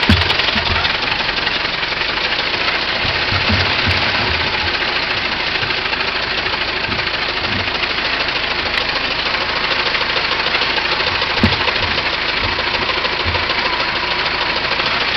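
1909 Ford Model T's four-cylinder flathead engine running steadily, with occasional low thumps.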